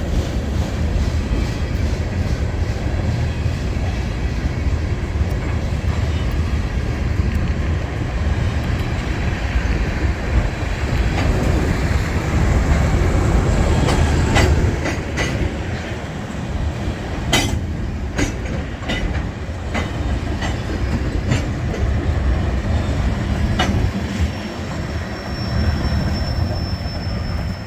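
A slow-moving manifest freight train's cars rolling past, with a steady low rumble and wheels clicking over rail joints through the second half. A thin high wheel squeal sets in near the end.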